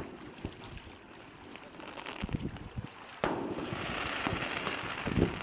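Fireworks display: scattered low thumps of bursts, then a sharp bang about three seconds in followed by a couple of seconds of dense crackling.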